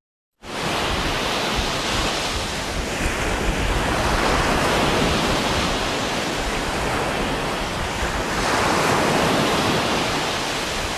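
Steady rush of wind and sea surf, with wind buffeting the microphone. It starts abruptly about half a second in.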